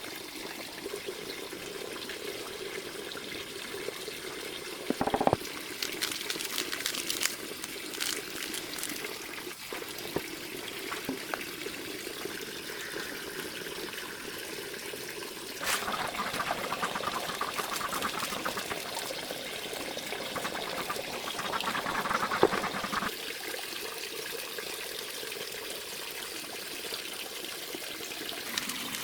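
Water trickling and splashing, with a few knocks, the loudest about five seconds in.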